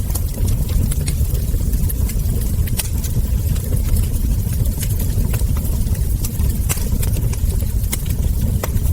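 Wood fire crackling, with frequent irregular sharp pops from burning logs and embers over a steady low rumble.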